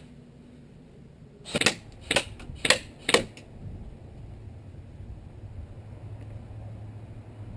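G&G Armament GR16 R4 airsoft rifle firing four shots in quick succession, about half a second apart.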